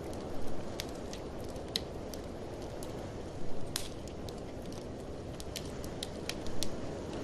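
Wood fire crackling in a fireplace, with scattered sharp pops and a few quick clusters of louder snaps, over a steady low rush of blizzard wind.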